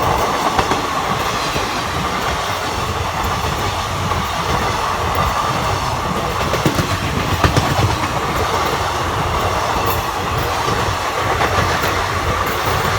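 A passenger train passing close at speed: a steady, loud rumble and rush of wheels rolling on the rails.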